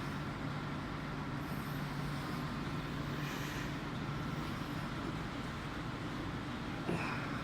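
Tunnel car wash machinery running with a steady mechanical noise. A low hum stops about two seconds in, and a brief sharp sound comes near the end.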